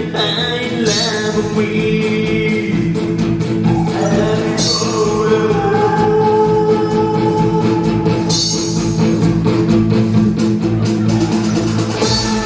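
Live rock band playing loud, with sustained electric guitar lines and drums keeping a steady beat of cymbal strokes, about two a second.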